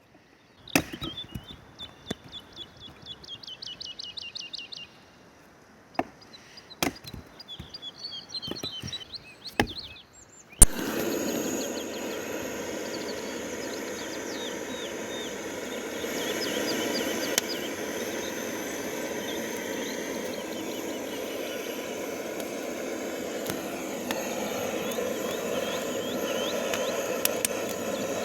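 Scattered sharp wooden knocks with birds singing. About ten seconds in, this cuts suddenly to a steady rushing outdoor noise with birdsong over it.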